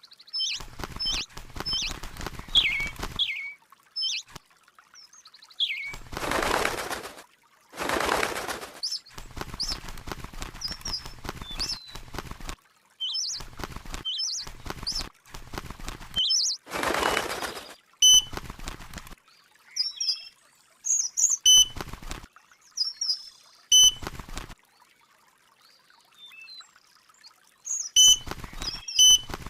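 A small bird chirping in short, quick calls and sweeping notes, broken up by loud bursts of rustling noise a second or less long.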